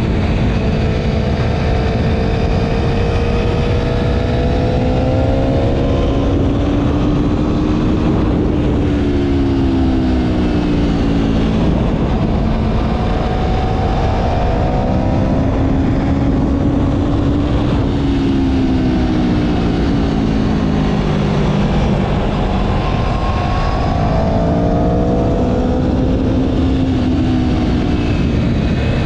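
Motorcycle engine running while riding, its pitch slowly rising and falling several times as the bike speeds up and slows, over a steady low rumble of wind.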